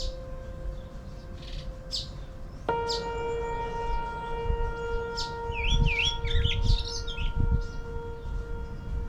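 Long held tones, like a soft wind instrument or drone, that change to a new note about three seconds in, with birds chirping over them and a low rumble coming and going.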